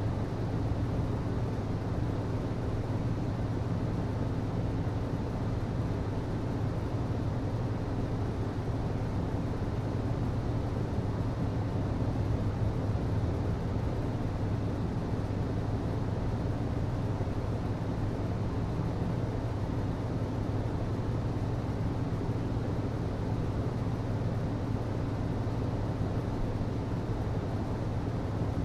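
HVAC system running: a steady, unchanging low hum with an even rush of air noise above it.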